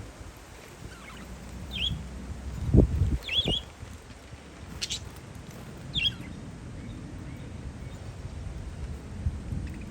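Parakeets chirping in short calls, three of them a couple of seconds apart, over wind buffeting the microphone with two loud low gusts about three seconds in and a brief click midway.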